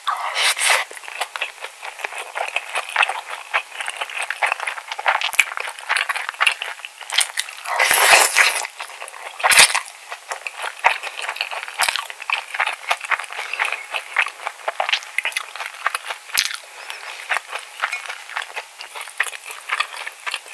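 Close-miked chewing of spicy cockle bibimbap: a dense run of mouth clicks and crackles, with a spoon scraping and clinking in the bowl and a louder burst about eight seconds in.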